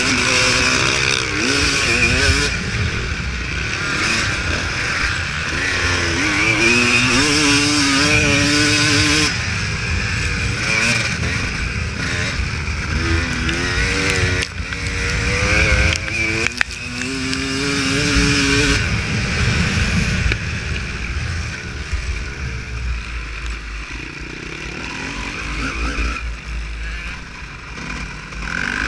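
Honda CR250 two-stroke motocross bike engine being ridden off-road, revving up and down over and over with its pitch rising and falling, a little quieter in the second half.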